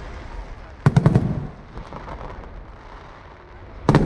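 Fireworks shells bursting in the sky: a quick cluster of sharp bangs about a second in, trailing off in a low rumbling echo, then another cluster of bangs near the end.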